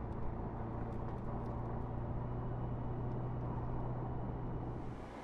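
Mercedes-AMG SL 63's twin-turbo V8 idling steadily with an even low drone.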